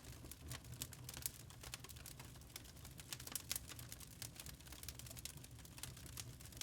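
Log fire burning in a fireplace, the wood crackling with rapid, irregular small pops and snaps over a faint steady low hum.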